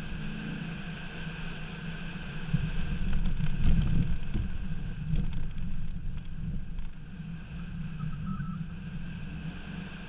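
1995 Pontiac Firebird Formula's V8 engine driven hard around autocross cones, heard from outside the car at the side mirror with wind rushing over the microphone. It gets louder for a couple of seconds about three seconds in.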